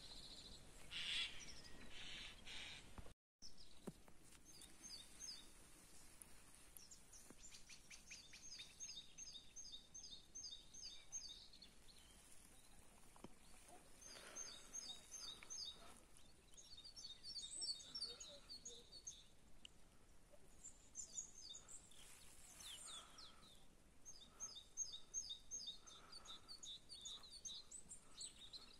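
Faint songbird song: phrases of quick repeated high notes, about five a second, coming every few seconds over a quiet outdoor hiss. The sound cuts out completely for a moment about three seconds in.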